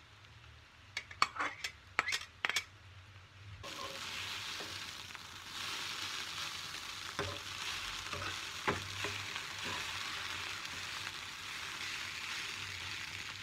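Noodles and diced vegetables frying in a nonstick pan, tossed with a metal slotted spatula. A few sharp clicks of the spatula against the pan come in the first few seconds, then a steady sizzle sets in with an occasional tap.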